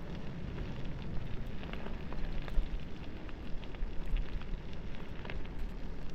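Bicycle tyres rolling downhill over a rough road surface, with small irregular crackles of grit and stones under the wheels and a low wind rumble on the microphone.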